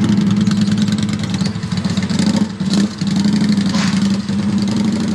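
A vehicle engine running steadily, a low hum with a fast even pulse, dipping briefly a little before the three-second mark.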